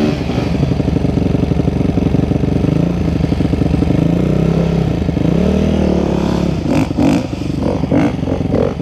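2009 Honda CRF250R's single-cylinder four-stroke engine running on a rough trail, its pitch rising and falling as the throttle is worked. Several sharp knocks and clattering come in the last two seconds.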